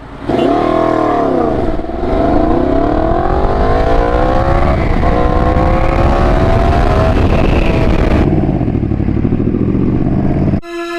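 Yamaha FZ-10 crossplane inline-four, catalytic converter removed, accelerating through the gears. The engine note rises, dips at each shift and climbs again, then holds steadier. Music cuts in abruptly near the end.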